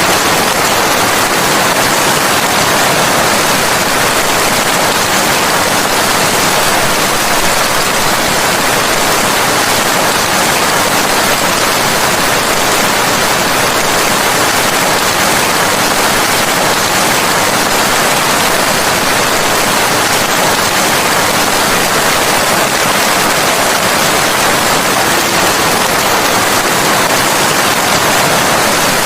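Steady, heavy rain: a dense, even hiss of rainfall that does not change.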